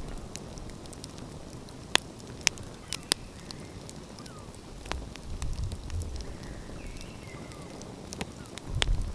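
Wood fire crackling, with several sharp pops about two to three seconds in, another near five seconds and one near the end, over a low rushing noise that swells about five seconds in and again at the end.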